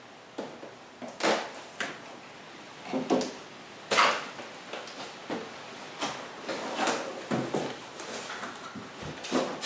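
Cardboard box being opened and handled by hand: irregular rustling, scraping and knocks of cardboard and packing, the loudest about a second in and about four seconds in.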